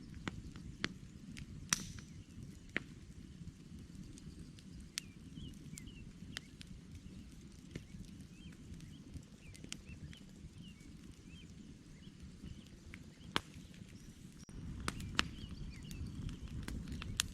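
Campfire burning, with irregular sharp crackles and pops over a low steady rush. The rush grows louder about two-thirds of the way through, and a few pops stand out. Faint bird chirps sound in the middle.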